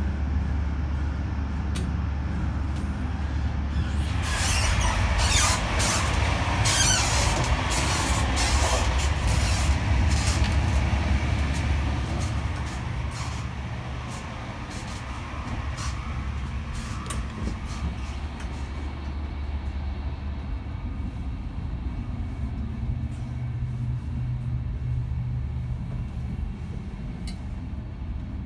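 Running noise of a Finnish InterCity double-deck train heard from inside: a steady low rumble. About four seconds in it grows louder, with rattling and clacking for some eight seconds while crossing between carriages, then settles back to a quieter rumble.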